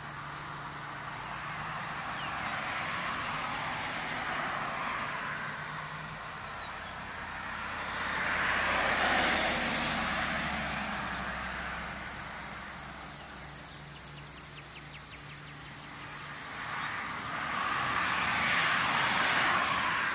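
Road vehicles passing by three times, each one swelling up and fading away over several seconds.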